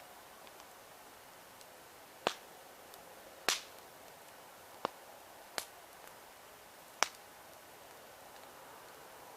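Wood campfire crackling: five sharp pops from the burning logs, spread irregularly over a few seconds, over a faint steady hiss of the fire.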